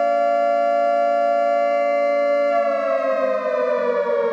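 Civil defense siren sounding a steady two-pitch tone, which begins falling in pitch about two and a half seconds in as it winds down.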